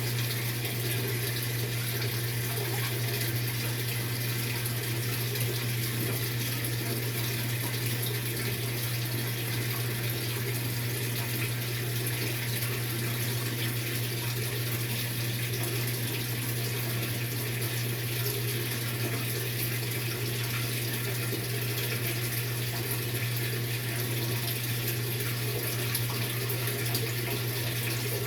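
Maytag MVWX655DW top-load washing machine on its tub-clean cycle: a steady rush of water over a constant low hum.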